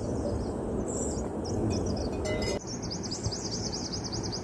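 A small bird calling high, first a few scattered chirps, then a fast repeated trill of about five notes a second starting a bit past halfway, over a steady rushing background noise.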